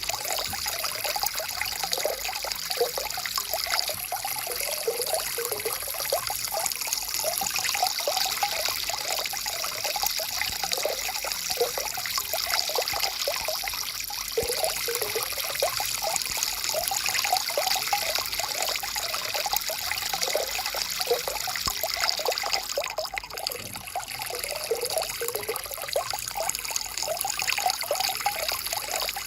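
Stream water flowing and trickling steadily over stones, with constant small gurgles and splashes.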